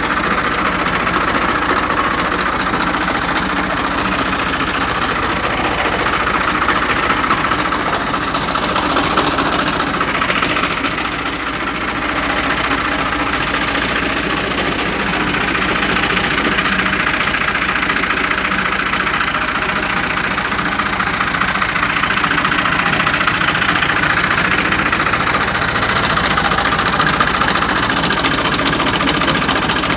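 Fiat 480 tractor's diesel engine running at a steady, even speed, dipping slightly for a moment about eleven seconds in.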